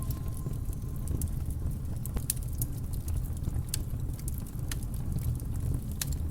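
Soft ambient background: a steady low rumble with scattered faint clicks and crackles, and a held musical tone that fades out about a second in.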